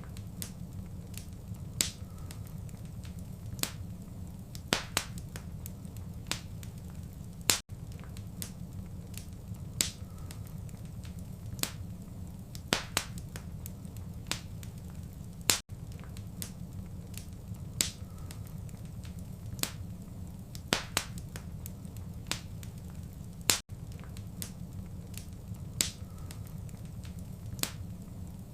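Wood fire in a fireplace crackling: irregular sharp pops and snaps over a steady low rumble of the flames. The sound briefly drops out about every eight seconds.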